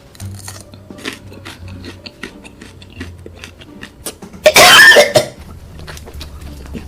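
A person eating very spicy food: small wet mouth clicks and smacks, then one loud cough about four and a half seconds in, lasting under a second, as the chili heat catches in the throat.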